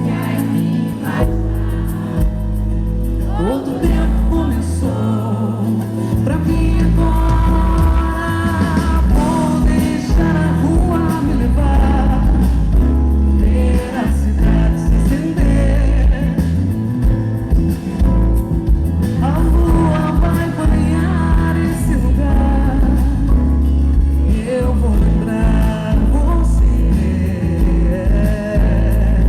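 Live pop band music with a sung vocal line, recorded in a concert hall.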